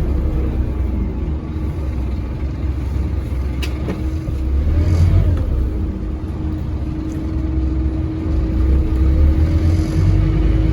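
Scania N230UD double-decker bus's diesel engine running under load with a deep rumble and a steady whine, its note rising and falling as the bus pulls away and changes gear. A single sharp knock is heard about four seconds in.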